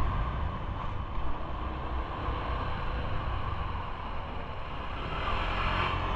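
Wind rushing over the microphone of a moving rider's action camera, over a steady low rumble of vehicle and road noise.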